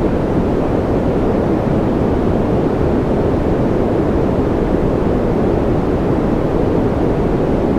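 Steady generated white-noise sleep sound: an even, unchanging rush, deeper than a bright hiss, with most of its weight in the low and middle range.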